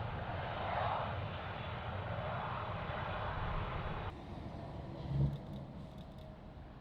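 Jet airliner engine noise, a steady rushing roar, that cuts off abruptly about four seconds in, leaving a quieter background with one low thump about a second later.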